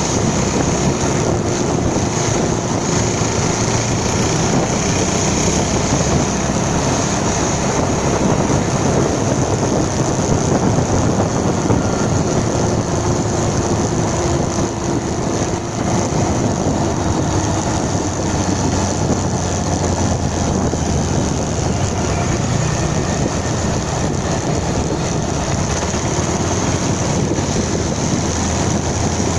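Motorcycle underway: the engine runs steadily under road and wind noise, with no marked revving or stops.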